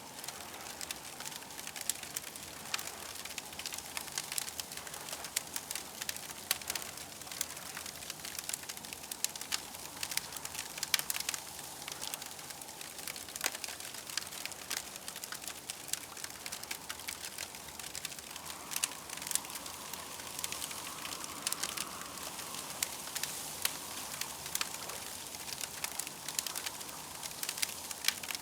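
Campfire crackling: dense, irregular small pops and snaps over a steady soft hiss, with a faint higher drone swelling about two-thirds of the way through.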